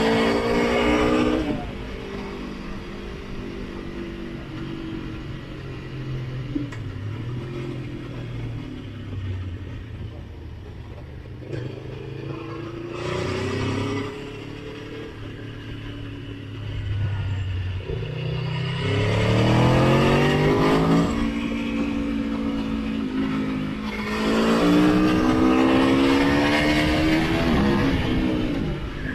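Motorcycle engine heard on board while riding: it runs at a steady pitch for a stretch, then revs up hard twice, its pitch climbing and dropping back at a gear change, with wind rushing past.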